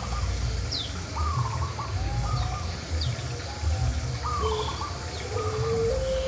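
Birds calling: a lower phrase repeats about every second and a half, with a few brief, thin, high chirps in between.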